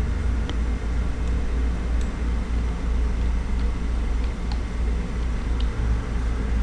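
Steady low hum with a few faint, short clicks scattered through it.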